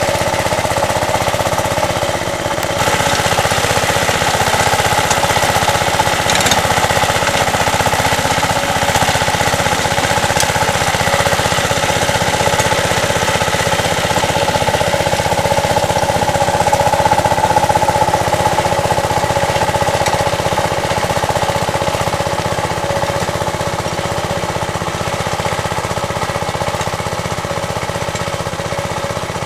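Two-wheel tractor's small engine running steadily with a fast, even rattling beat while driving a soil-working attachment.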